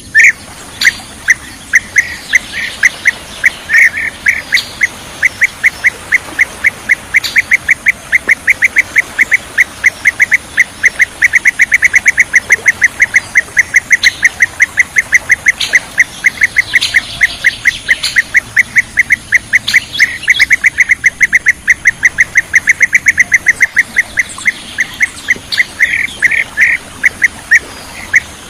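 Bee-eater (kirik-kirik) calls in a rapid, unbroken series of short notes, about five a second, with a few higher notes over them.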